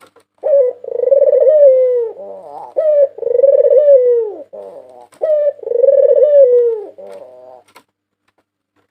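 White Barbary dove (puter putih) cooing: three repeated phrases, each a short opening note followed by a long rolling coo that falls away at the end, with a few softer notes trailing after.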